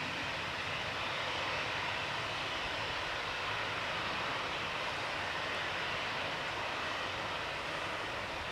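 Four-engine Airbus A380 jet airliner landing, its engines giving a steady, even rushing noise.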